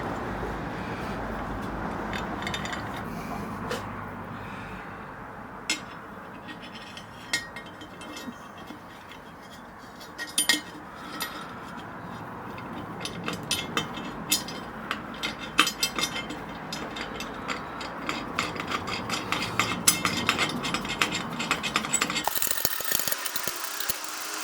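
Small metal parts being handled and fitted by hand: scattered light clicks and clinks with some rubbing, growing busier in the second half, as a worktop connector bolt and its nut are worked into place.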